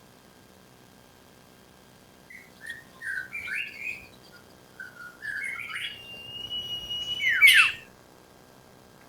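Iora (sirtu) song: a run of short chirping notes, then a long level whistle, ending about seven seconds in with quick, loud down-slurred notes.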